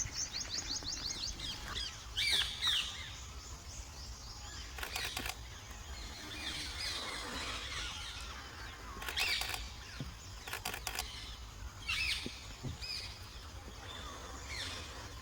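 Wild forest birds calling and chirping: a quick run of high, falling notes at the start, then scattered short chirps, with a few brief clusters of sharp clicks over a low outdoor rumble.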